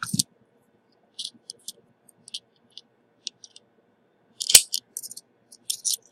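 Scattered small, sharp clicks and ticks of metal tools and probes being handled on a repair bench, with one louder click about four and a half seconds in.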